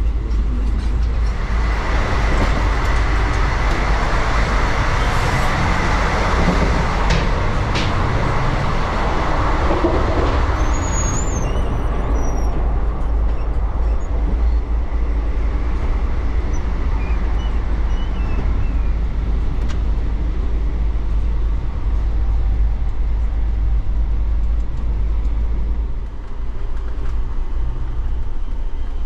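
Running noise of an Indian Railways passenger train heard inside a sleeper coach: a steady low rumble, with a louder rushing hiss over the first ten seconds or so. Two sharp clicks come about eight seconds in.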